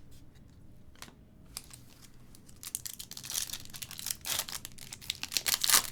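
Trading-card pack wrapper being torn open and crinkled by hand: a few light clicks at first, then a dense crackling from about halfway that grows loudest near the end.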